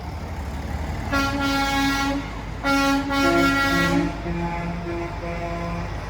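Semi-truck air horns blowing: two long blasts about half a second apart, then several shorter, fainter horn blasts of a different pitch until near the end, over a steady low diesel engine rumble.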